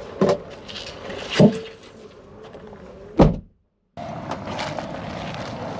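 Three heavy thuds around the loaded cargo area of an SUV, the third and loudest about three seconds in, typical of the rear hatch being shut. After a brief dropout, a steady hum of the vehicle.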